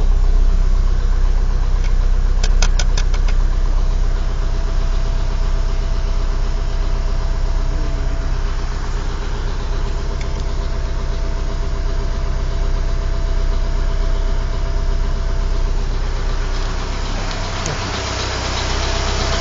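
Warm car engine idling steadily with an engine knock whose cause has not been found. A short run of sharp clicks comes about two seconds in.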